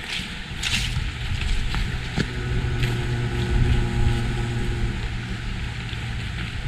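A low, steady engine drone from a motor vehicle, starting about a second in and fading near the end, with the crunch of a footstep on dry leaves near the start.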